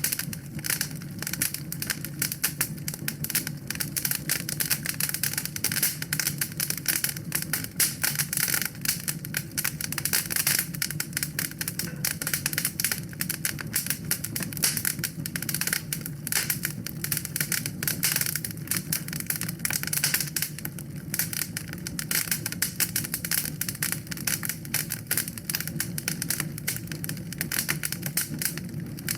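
Wood fire in a fireplace crackling steadily, a dense stream of small pops and snaps over a low, even rumble of burning.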